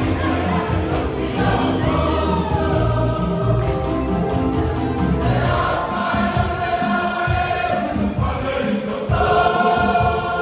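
A choir of many voices singing a hymn-like song together, with sustained sung notes over a steady low accompaniment.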